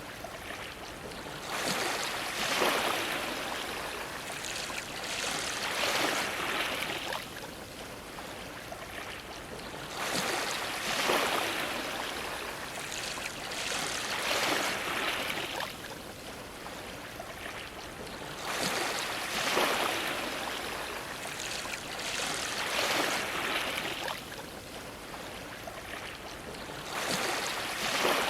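Ocean waves washing and splashing against a dock, each surge swelling and falling away in turn, about seven in all, roughly one every four seconds.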